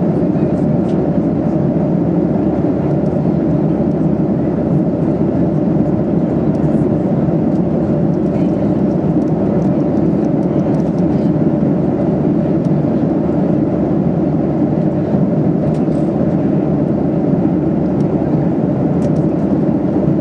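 Steady cabin drone inside a Boeing 737-800 in flight: engine and airflow noise heard from a seat in the cabin, an even, low rushing sound with no change.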